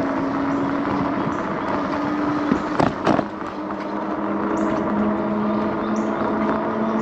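Electric bike ridden on a paved trail, heard from a handlebar-mounted camera: a steady motor whine that drops in pitch a couple of times, over tyre and wind noise. A few sharp knocks come about three seconds in.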